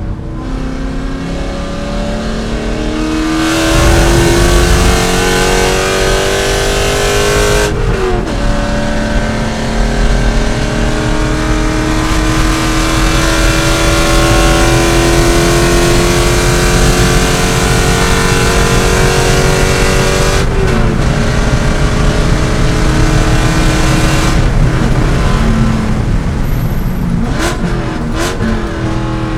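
C5 Corvette's V8 engine racing at full throttle, its pitch climbing through a gear, shifting up about eight seconds in, then pulling long and slowly rising until it lifts about twenty seconds in; near the end come quick revs of downshifts.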